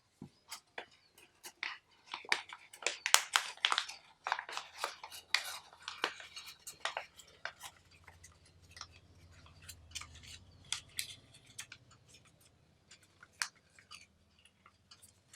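Origami paper being folded and creased by hand: crinkling and sharp crackles, busiest in the first half, then sparser.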